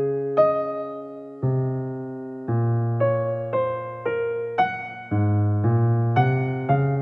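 Slow keyboard music: chords struck one after another, each dying away before the next.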